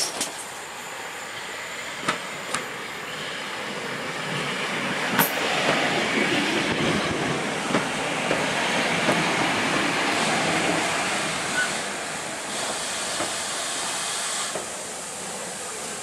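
Steam-hauled train of passenger coaches rolling slowly past, a steady running noise with a light hiss and occasional sharp clicks of wheels over rail joints.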